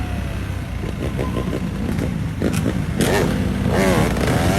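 Motorcycle engine running, then revving up and down in quick throttle blips from about three seconds in.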